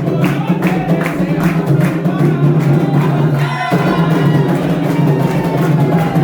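Candomblé ritual music: atabaque hand drums played in a steady rhythm under a group singing a chant for Xangô.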